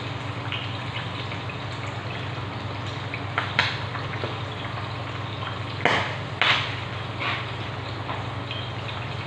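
Seasoning paste frying in oil in a wok over a gas burner, a steady sizzle with a low hum underneath. There are a few louder crackles about a third of the way in and again around two thirds of the way through.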